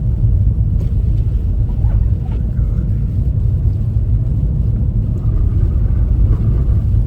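Steady low rumble of a front-wheel-drive car on winter tyres driving slowly over a snow-covered road, heard from inside the cabin: tyre and engine noise.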